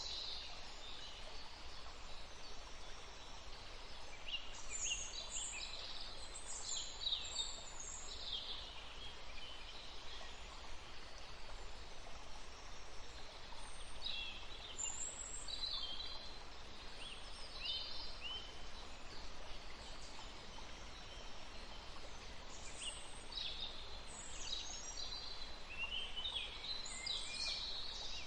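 Small songbirds chirping in quick clusters of high, short calls, coming in bouts a few seconds apart over a steady background hiss.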